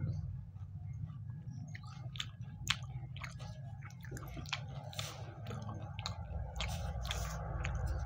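A person chewing a mouthful of food, with scattered wet clicks and lip smacks, over a steady low hum.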